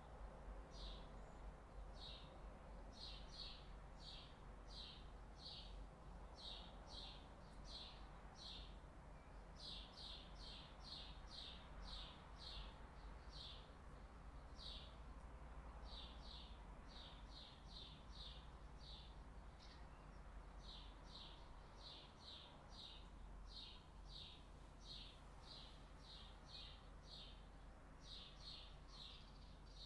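Faint, quick chirps of a small bird repeating over and over, two or three a second in runs, with a few short breaks. Underneath is a low, steady background rumble.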